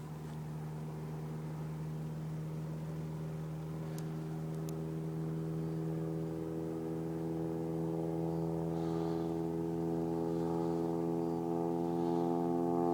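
Propeller aircraft engines droning steadily and growing gradually louder, as if approaching or working harder.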